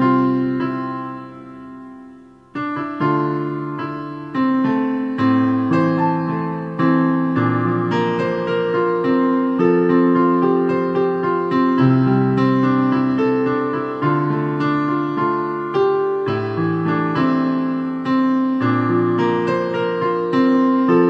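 Piano music: a melody and chords played note by note, each note fading after it is struck. Early on the sound dies away for a moment, then the playing resumes and carries on.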